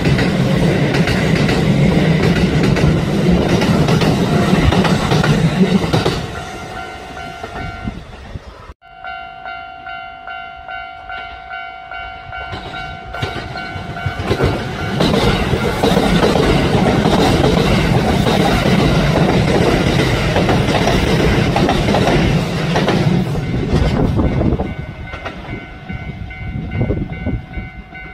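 Train running on rails, loud for about six seconds, then dropping away and cutting off abruptly about nine seconds in. A quieter stretch follows with a steady high tone and soft pulses about twice a second. Then the loud train noise returns for about nine seconds and fades again near the end.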